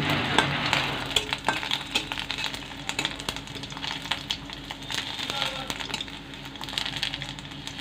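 Dried loitta shutki (Bombay duck) sizzling in hot mustard oil in a black iron karahi, with a metal spatula scraping and clicking against the pan as the pieces are stirred. The sizzle fades gradually.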